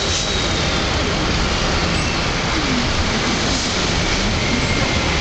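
Steady road noise of a car driving, heard inside the cab: a rushing hiss of tyres and wind over a low rumble.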